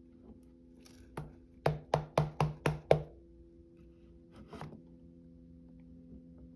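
A quick run of about seven light, sharp taps on a tabletop, roughly four a second, then a single softer tap a little later, over a low steady hum.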